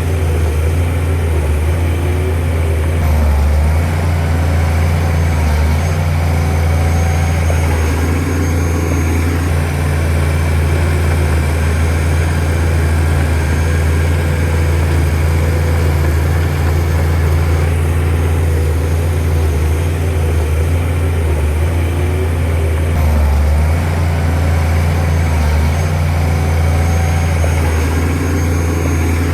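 Heavy diesel engine of a Shantui DH17C2 bulldozer running steadily, with a deep, even hum.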